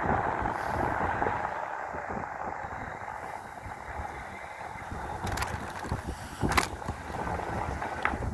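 Wind rushing over the microphone on a moving electric bike, with road noise and a few sharp clicks in the second half.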